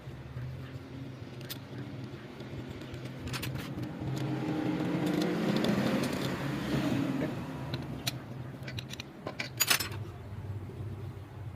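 Small petrol generator engine running steadily, its sound swelling for a few seconds in the middle, with sharp metallic clinks near the end.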